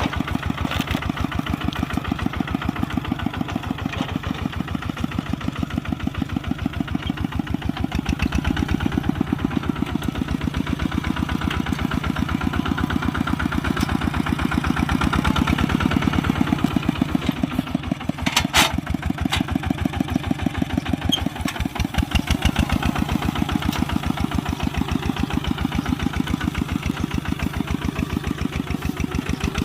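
Kubota RT140 walking tractor's single-cylinder diesel engine running steadily with a fast, even chugging beat. About two-thirds of the way through there is one brief sharp sound over the engine.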